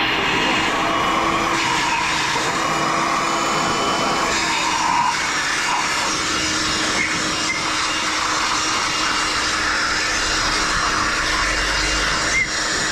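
Compressed-air blow gun hissing steadily as it blows water out of the engine's spark plug wells, with a faint steady hum under the hiss; it eases off near the end.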